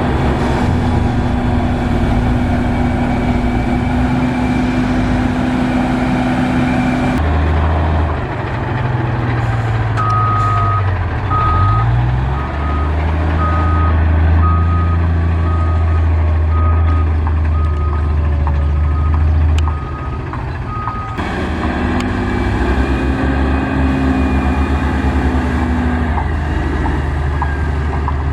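Heavy road-construction machinery engines running under load, with a reversing alarm beeping about once a second for roughly ten seconds in the middle.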